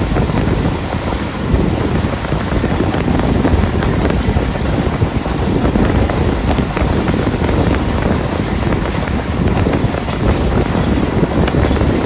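A passenger train running at speed, heard from a coach window: wind rushing over the microphone over the steady rumble of the coach's wheels on the rails.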